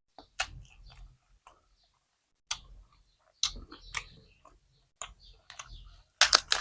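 A person chewing food close to the microphone: irregular wet clicks and crunches with short pauses between, the loudest crunch near the end.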